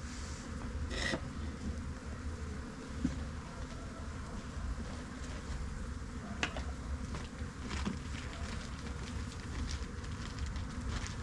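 Honey bees buzzing in a steady hum around an opened hive. A few short clicks from handling are heard, about a second in and again around six and a half and eight seconds.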